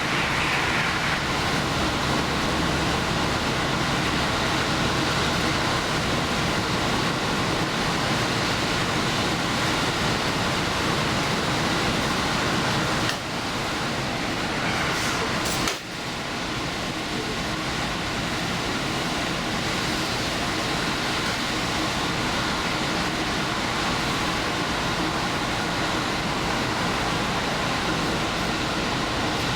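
Diesel express railcar running at speed, heard from inside the leading car as a steady rumble of engine and wheels on rail. The level dips briefly twice, about halfway through.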